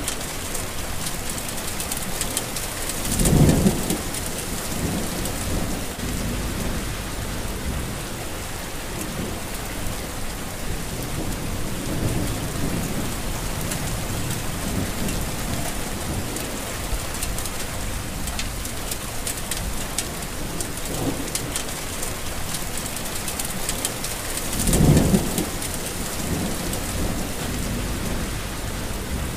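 Heavy rain falling steadily, an even hiss and patter. Two brief low rumbles stand out, one a few seconds in and one near the end.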